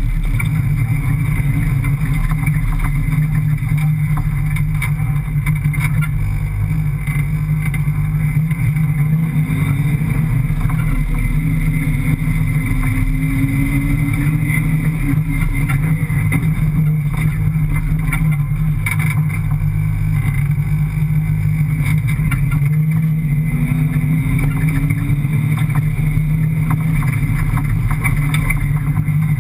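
A rally car's 5.7-litre Hemi V8 engine running hard, heard from inside the cabin while driving over sand dunes. Its note rises as it revs up twice, once about a third of the way in and again later on.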